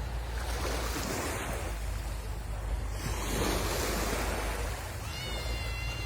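Sea waves washing in on a beach, with wind buffeting the microphone as a steady low rumble. Near the end, a brief high steady tone lasting about a second sounds over the surf.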